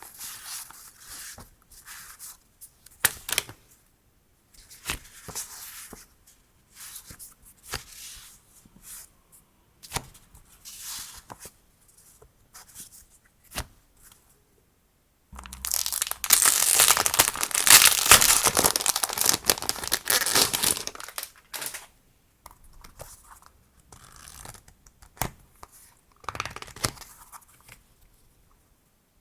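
Stationery packaging being handled and unwrapped: soft crinkles and small clicks, then about a third of the way in a louder tearing and crinkling that lasts about five seconds before dying back to light rustles.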